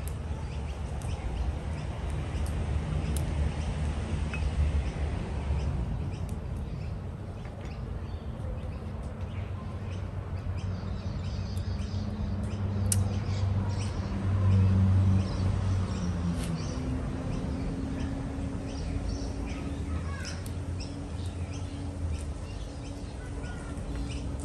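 Small birds chirping on and off over a low steady rumble.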